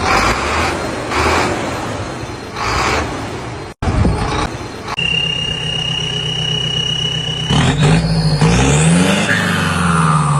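Heavy construction-machine diesel engines working: rough surging engine noise, a sudden cut about four seconds in, then a steady engine hum with a high whine that revs up and down near the end.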